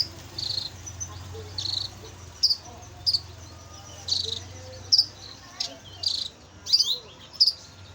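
Canary singing in short, high chirps and brief trills, spaced irregularly, over a steady low hum that stops near the end.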